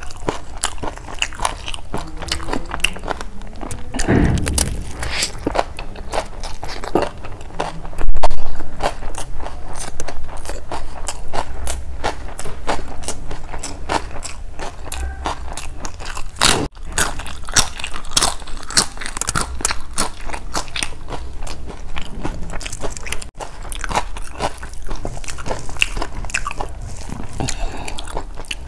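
Close-miked eating by hand: wet chewing, lip smacks and crisp crunches on mouthfuls of curried rice, many sharp clicks a second. There is a sudden very loud burst about eight seconds in.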